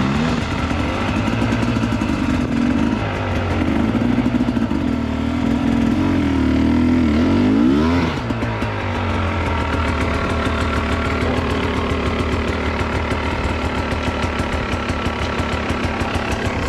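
Dirt bike engine revving up and down under throttle, its pitch climbing to a peak about eight seconds in, then dropping suddenly and running at a steadier, lower pitch.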